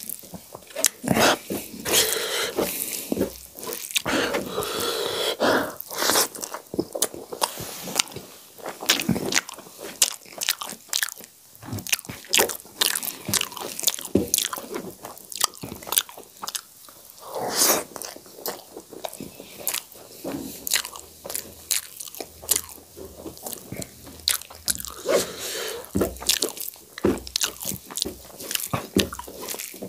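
Close-miked chewing and biting with crisp crunches and wet mouth sounds, from a mouthful of rice with cooked greens and raw green chillies. Fingers squish and mix soft rice and greens on the tray.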